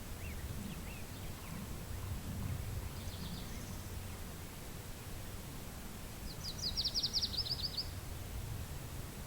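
Steady low wind rumble, with a few faint bird chirps early on and, about six seconds in, a small songbird singing one fast, high trill of rapid repeated notes that lasts about a second and a half.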